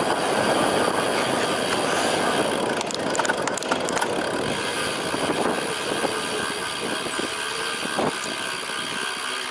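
Steady rushing wind and rolling noise of a cyclocross bicycle being ridden, with a few light clicks about three to four seconds in, easing off slightly near the end.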